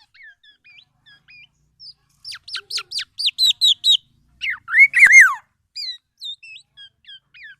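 Black-naped oriole (kepodang) calling: a string of short chirps and gliding whistled notes, with a quick run of falling notes about two seconds in and the loudest, fuller arched notes about five seconds in.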